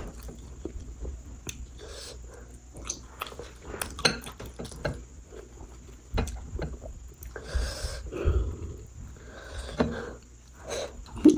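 Close-up mukbang eating sounds: wet chewing and biting with many small mouth clicks, and a longer noisy stretch a little past the middle.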